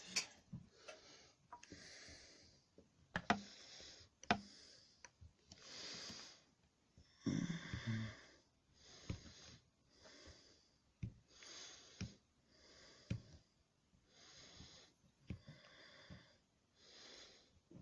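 A man breathing heavily through his nose, close to the microphone, in regular breaths about once a second, with a few sharp clicks from small parts being handled as he works a fuel line onto a carburettor.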